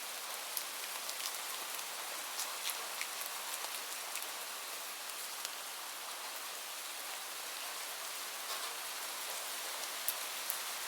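Gentle rain falling steadily, an even hiss with scattered sharp ticks of drops, a few of them louder near the end.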